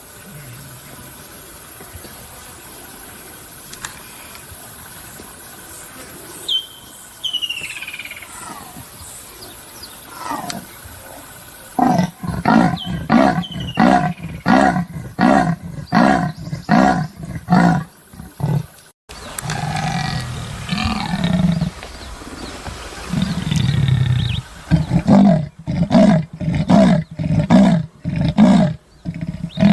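Leopard giving its sawing call: a series of coarse, rasping grunts, each in-and-out stroke coming about one and a half to two times a second, like a saw going through wood. A first run of about eleven strokes starts about twelve seconds in, and a second run follows near the end.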